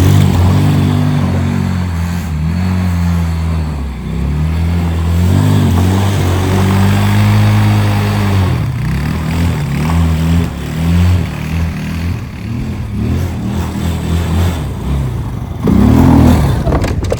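Jeep Wrangler engine revving through a spin in the snow, its pitch rising and falling again and again; loudest at the start and again shortly before the end.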